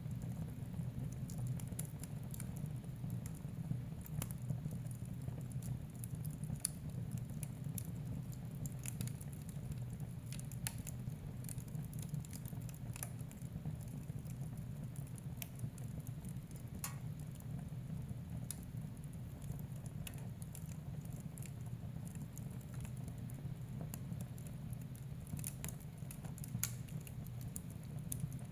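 Wood fire burning in a fireplace: scattered, irregular sharp crackles and pops over a steady low sound of the burning.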